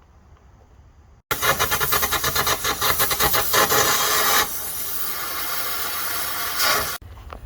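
Carbon arc gouging on a steel truck frame: a loud, rough crackling with rapid pops, as the arc and air blast cut a groove out along a crack. It starts suddenly about a second in, eases a little partway through, and stops abruptly near the end.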